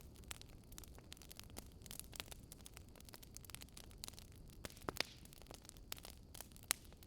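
Wood campfire crackling: irregular sharp pops and snaps of burning wood over a low steady hiss.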